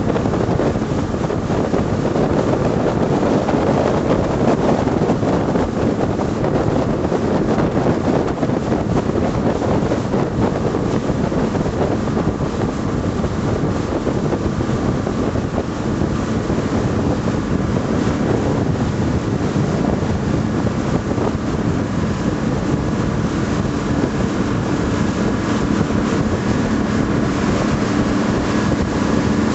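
A 12-metre patrol boat running under way: a steady engine drone mixed with rushing water and wind buffeting the microphone. The engine hum comes through more clearly over the last few seconds.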